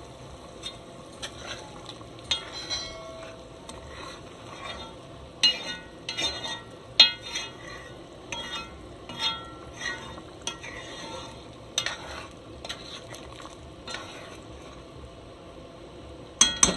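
A spoon stirring and scraping in a pot of curry chicken, with irregular clinks and scrapes over the steady bubbling hiss of the freshly watered curry. Near the end comes a quick run of sharp taps.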